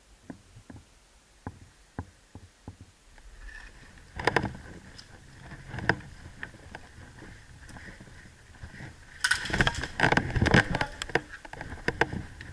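Rustling and knocks, with scattered sharp clicks that build to a dense, loud run of clicks lasting about two seconds, starting about nine seconds in.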